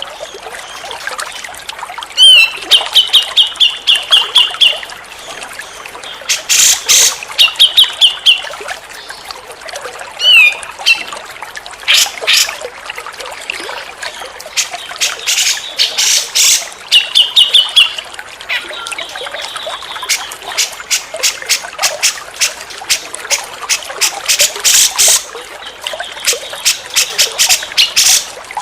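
Grey-cheeked bulbul (cucak jenggot) calling: runs of quick, evenly spaced high notes alternating with harsh, rapid chattering, over a steady trickle of running water.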